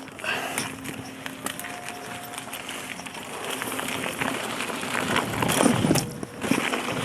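Bike riding noise picked up by a bike-mounted action camera: wind rush with clicks and rattles from bumps, getting louder about four seconds in and peaking near the end.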